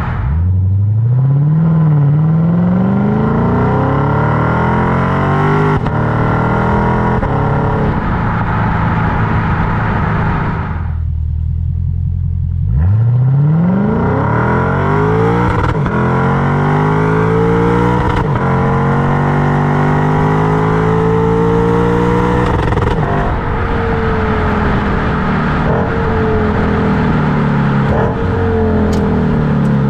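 Lexus IS500's 5.0-litre V8 through an RR Racing R2 axleback exhaust, a near muffler-delete, under acceleration while driving. The pitch rises through the gears with a shift about two seconds in. The upper notes drop away briefly around eleven seconds as the driver lifts off, then another full pull climbs again before the engine eases off with falling pitch in the last several seconds.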